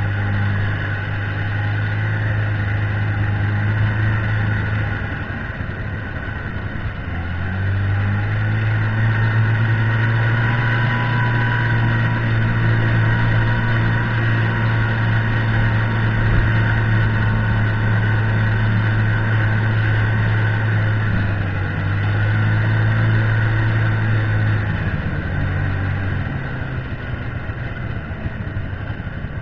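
Buran snowmobile engine running under way with a steady drone. The note drops briefly about six seconds in and twice more near the end, then picks up again each time.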